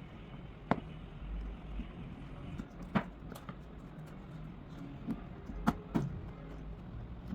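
About five sharp clicks and taps at irregular moments over a low steady hum.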